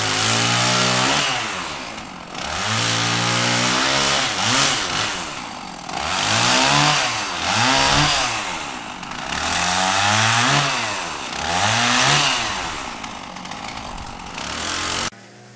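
An engine revved hard several times, each rev climbing in pitch and dropping back, about five in all. It cuts off suddenly near the end.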